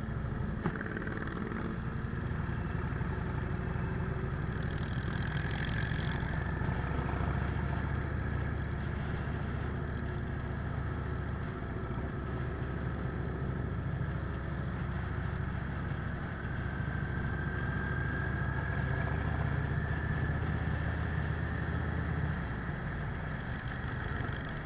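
V-twin cruiser motorcycle engine running steadily at a cruising speed, picked up by a camera mounted on the bike, with the motorcycles riding ahead in the group.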